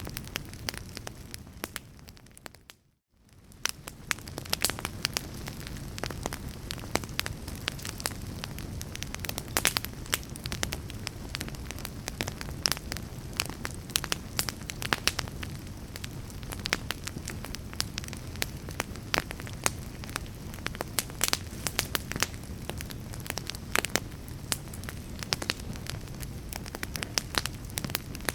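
Fire crackling: a steady hiss with frequent sharp pops and snaps. It fades almost to silence for a moment about three seconds in, then comes back.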